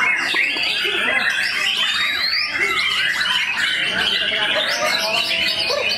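Several white-rumped shamas (murai batu) singing at once in competition, a dense, overlapping stream of quick whistles, trills and chirps, with human voices mixed in.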